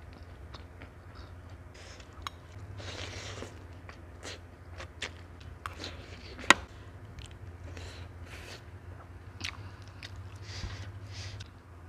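Close-miked eating: chewing and wet mouth sounds of soft noodles, with scattered short clicks and a sharp metal spoon click about six and a half seconds in.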